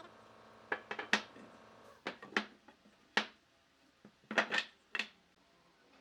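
Irregular sharp knocks and clicks of hard objects striking one another, about nine in six seconds, some in quick pairs and a few with a brief ring.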